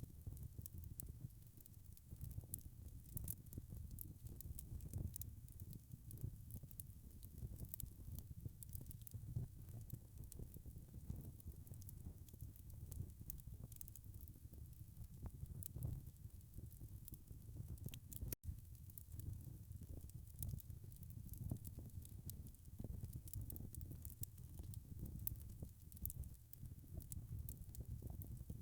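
Wood fire in a fireplace crackling, with irregular sharp pops and snaps over a low steady rumble of the flames. The sound drops out for an instant about eighteen seconds in.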